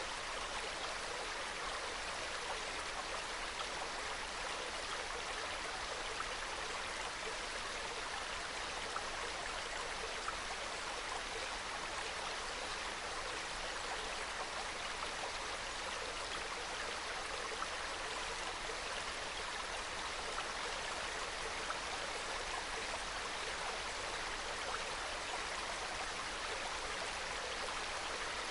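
Small mountain stream trickling and babbling over rocks, a steady soft flow of water.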